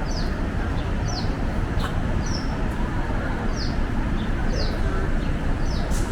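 A small bird giving short, high, falling chirps about once a second, over a steady low rumble of city background noise.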